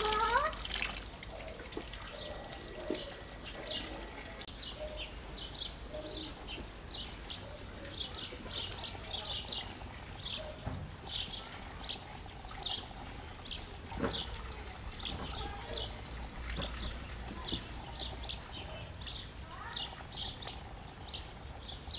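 Small birds chirping: many short, high chirps, several a second in irregular runs, starting about two seconds in. At the very start, water runs briefly from a tap.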